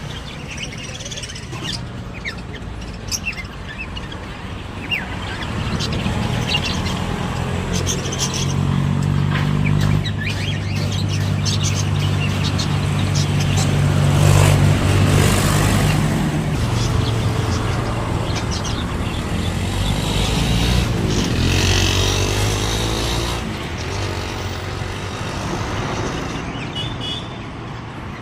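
Small cage birds chirping in short high bursts over the low drone of a motor vehicle's engine. The engine grows louder to a peak about halfway through, then fades.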